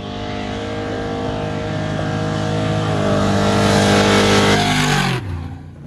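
Off-road race vehicle engine running at high revs, growing steadily louder over about four seconds, then dropping abruptly in level and pitch about five seconds in.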